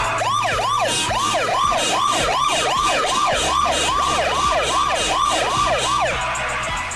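Cartoon police car siren: a fast rising-and-falling yelp, about two sweeps a second, that stops about six seconds in.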